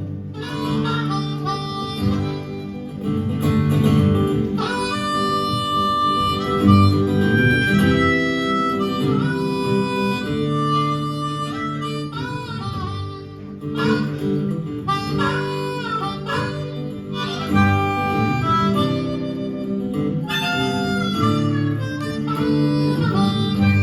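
Harmonica playing a solo over acoustic guitar accompaniment, in the instrumental break between verses of a folk song.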